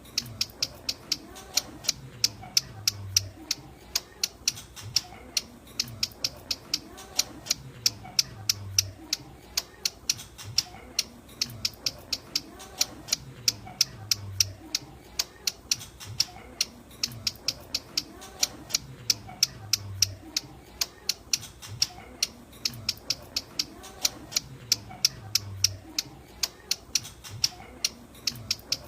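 Ciblek gunung, a prinia, calling in a continuous run of sharp, high, ticking notes, several a second with no pause: a typical call recording used to lure the birds.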